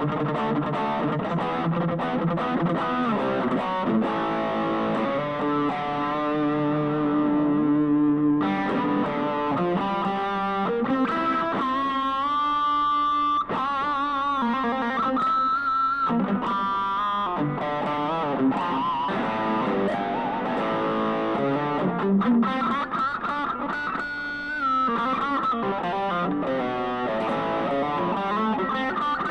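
Fusion Stratocaster-style electric guitar played through an amp as a sound demo: held notes and lead lines with bends and wavering vibrato. The tone turns brighter about eight seconds in.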